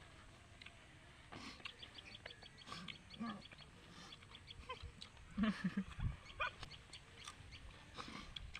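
Close-mic eating sounds: wet chewing and lip smacking with many small clicks, and a few short low throaty grunts from the eater about halfway through.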